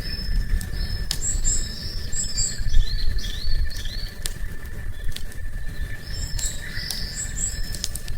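A small songbird singing short repeated phrases, while a campfire crackles with sharp snaps. A thin steady high tone runs through it, like a seasonal insect, over a low rumble.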